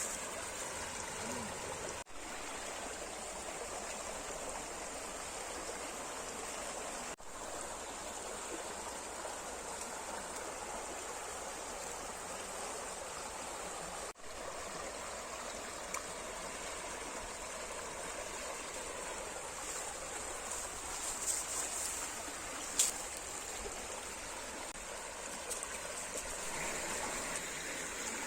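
Small river running steadily, a continuous rush of flowing water, with a few brief dropouts and a single sharp tick late on.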